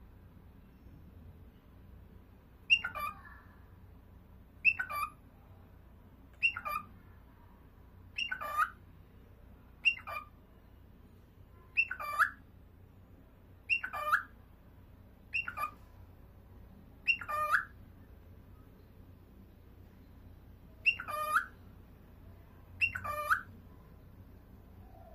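A small pet parrot giving short, sharp calls, about one every two seconds, eleven in all, with a longer pause before the last two.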